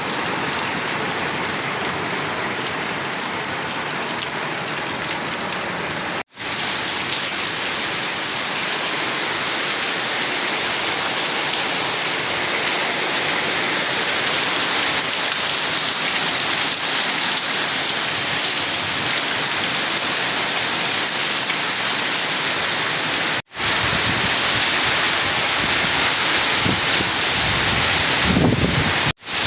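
Heavy rain pouring down steadily, a dense even hiss of a downpour, broken by three momentary gaps.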